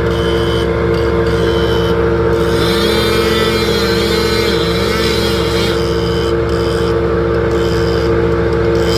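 A large engine running at a steady speed, a continuous drone with a lower tone that wavers slightly.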